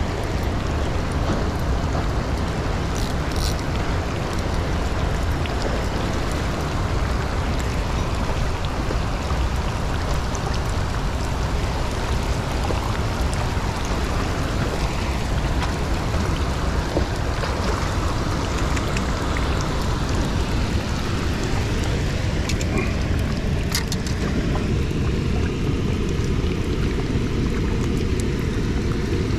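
Steady rain falling on the water and shore rocks, with a constant low rumble beneath it; the higher hiss thins out a few seconds before the end.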